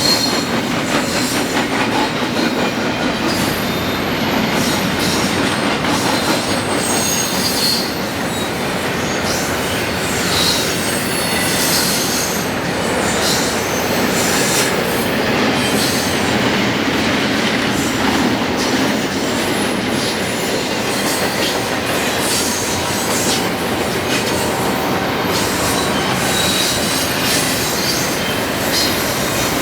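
Freight train cars rolling past close by: a steady loud rumble and clatter of wheels on rail, with short high wheel squeals here and there.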